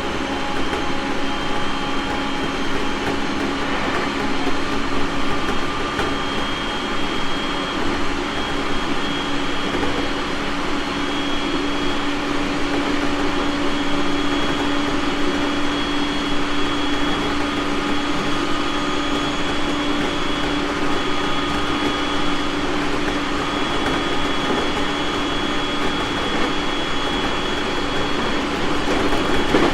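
Running noise of a JR East 701 series 1000-subseries electric train at steady speed: a continuous rumble with a steady hum and a fainter high whine, holding level throughout.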